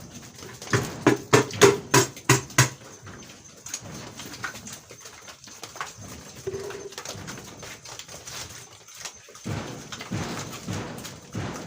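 Pigs grunting as they eat. A quick run of short, loud grunts comes in the first few seconds, followed by softer, irregular grunting.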